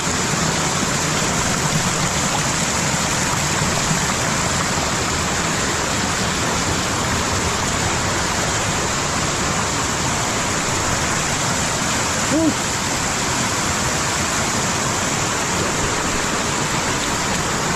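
Stream water rushing over rocks, a steady, loud wash of noise that never lets up.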